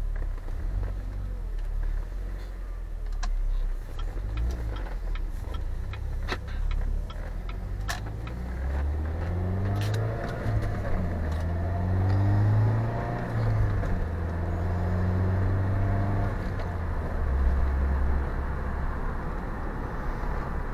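Opel GT's turbocharged four-cylinder engine heard from inside the cabin while driving. About halfway through, the engine note rises as the car accelerates, then drops at a gear change and runs on steadily over road noise.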